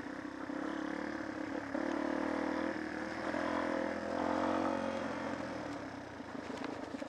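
Off-road motorcycle engine running at low, fairly steady revs, picking up slightly a couple of times and easing off near the end.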